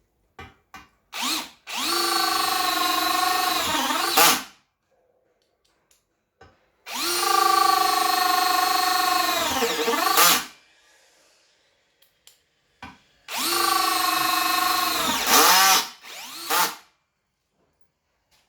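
Brushless Bosch BL-5120 cordless drill, its clutch at the lowest setting, run three times for about three seconds each. Short trigger blips come before each run, and each run winds down with a falling pitch as the trigger is released.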